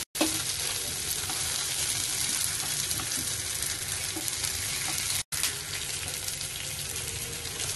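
Sliced Beijing scallion, red pepper and fresh shiitake mushrooms sizzling steadily in hot oil in a frying pan, being moved about with chopsticks. The sizzle drops out abruptly for an instant right at the start and again about five seconds in.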